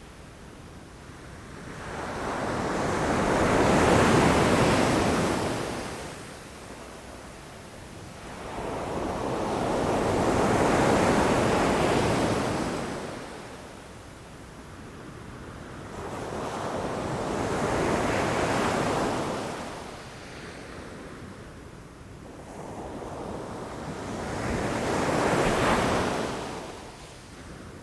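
Ocean waves breaking against shoreline rocks, four waves in turn, each surge of surf building, crashing and washing back before a short lull.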